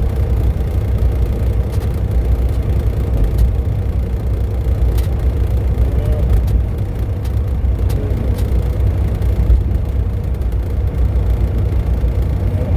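Semi truck cruising on the highway, heard from inside the cab: a steady low rumble of engine and road noise.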